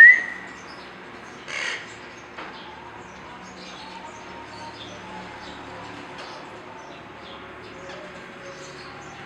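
Lovebirds calling: a loud, shrill rising call right at the start, a harsh squawk about a second and a half in, then faint scattered chirps over a low steady hum.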